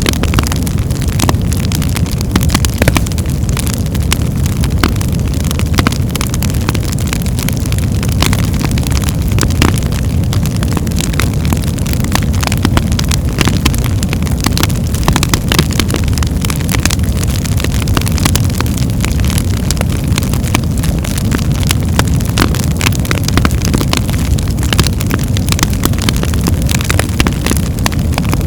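Birchwood fire burning in a fireplace: a steady low rumble of flames with frequent sharp crackles and pops scattered throughout.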